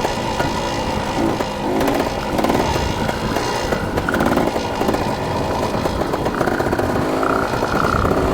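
Dirt bike engine running while riding, its pitch rising and falling as the throttle opens and closes.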